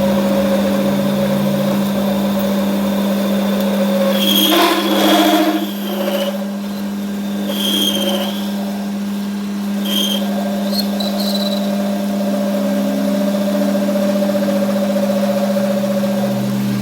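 A machine running with a steady hum, with a few brief higher-pitched sounds about four, eight and ten seconds in.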